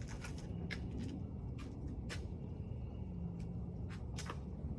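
A handful of sharp clicks and taps, gear being handled, over a steady low rumble.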